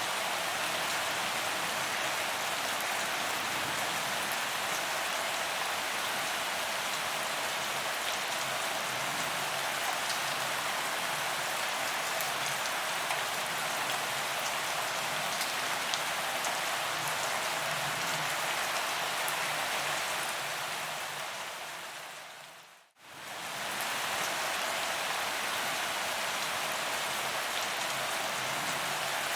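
Rain falling steadily on a paved promenade: an even hiss with individual drops ticking. About three-quarters of the way through it fades down to almost nothing and straight back up again.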